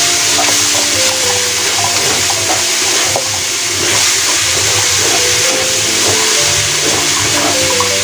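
Chicken and shimeji mushrooms sizzling steadily in a hot wok as they are stirred with a wooden spatula, with a few light scrapes. Background music plays a melody of held notes over it.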